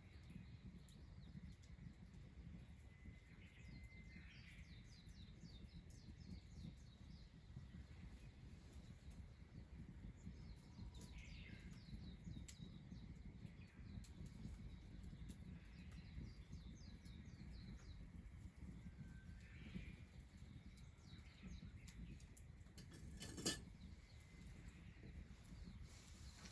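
Faint birds calling now and then with short chirps over a low steady rumble, with one sharp click near the end.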